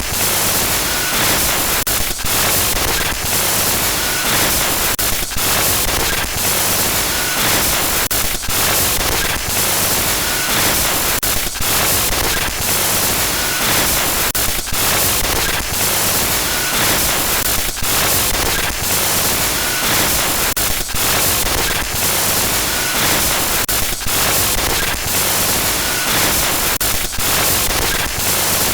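Loud, harsh static noise for a horror glitch sound effect: dense hiss crackling with frequent sudden clicks and brief dropouts, and a faint short beep about every two seconds.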